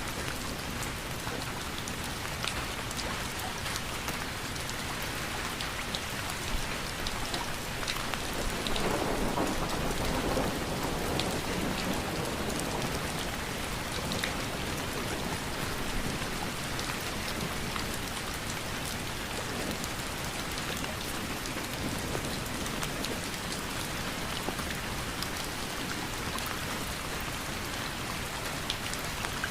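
Steady rain falling, with scattered sharper drop hits throughout; a low swell of rumble rises about nine seconds in and eases off after a couple of seconds.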